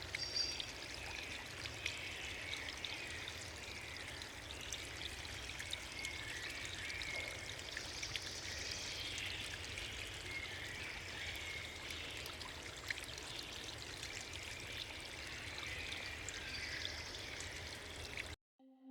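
Steady rush of flowing water from a river or falls, cutting off suddenly near the end.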